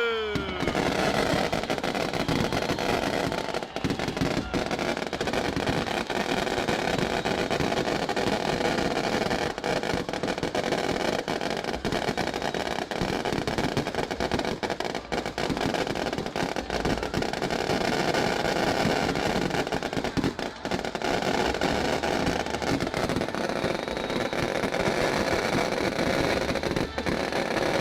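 Fireworks display going off in a continuous dense barrage of crackling and popping.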